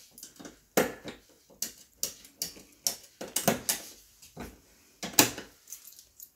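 Clicking and clacking of a wall-mounted combination key lock box as its dials are worked, a quick run of sharp metal clicks, with a louder clack about five seconds in as the box is shut.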